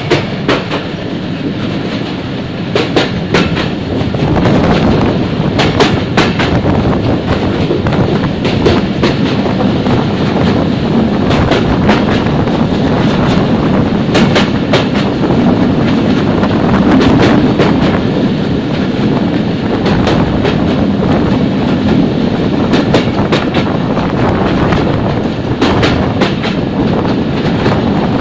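Rupsha Express passenger train running, its wheels clattering over rail joints with frequent irregular clacks above a steady rumble, heard from aboard the train.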